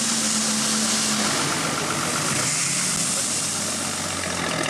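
Off-road 4x4 engines running steadily under load as one vehicle tows another, stuck in mud, on a strap. A strong hiss lies over them. The engine note drops a little about a second in.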